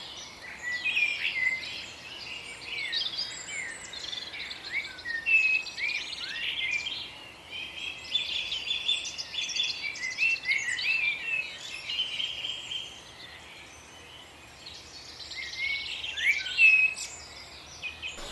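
Songbirds singing, many overlapping high chirps, whistles and trills, easing off for a couple of seconds about three-quarters of the way through.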